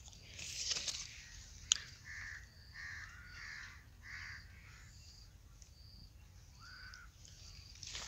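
Faint bird calls outdoors: a run of short calls repeating about twice a second, with a single sharp click about two seconds in.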